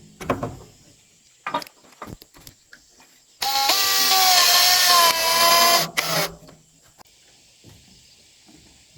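Knocks and clicks, then a handheld power tool runs for about three seconds with a steady whine that drops slightly in pitch before it stops.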